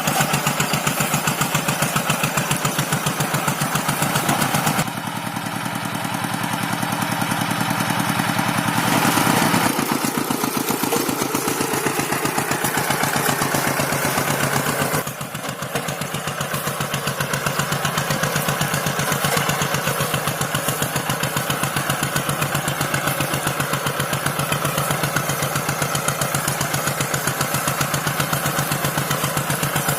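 Rice-field tractor engine running steadily with a regular firing beat while plowing dry paddy soil. Its tone shifts briefly about five seconds in and again near fifteen seconds.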